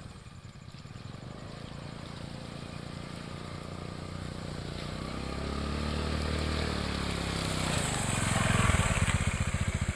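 Small motorcycle engine drawing closer and growing louder, loudest near the end, then running at low revs with an even chugging beat.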